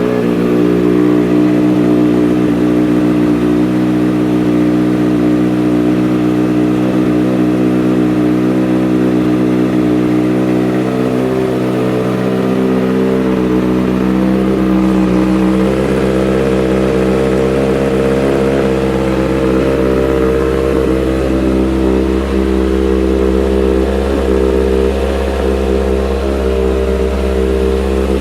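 2009 Kawasaki Ninja ZX-6R's 599 cc inline-four engine, fitted with an aftermarket M4 exhaust, idling steadily.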